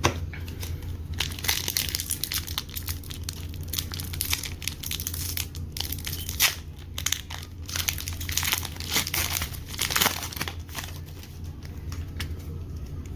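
Foil Pokémon booster pack wrappers crinkling and tearing as packs are handled and torn open, in irregular crackly bursts.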